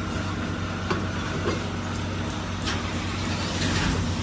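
An engine running steadily, with a few light knocks.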